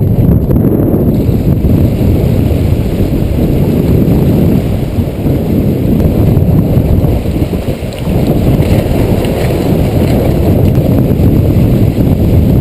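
Strong wind buffeting the microphone aboard a small sailboat sailing fast in high wind: a loud, steady low rumble that eases briefly about five and eight seconds in.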